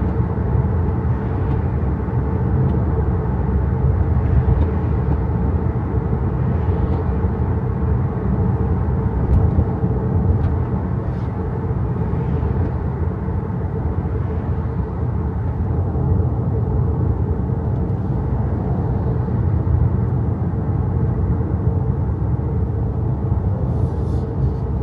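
Steady low rumble of road and tyre noise from an XPENG G6 electric SUV driving, with no engine note.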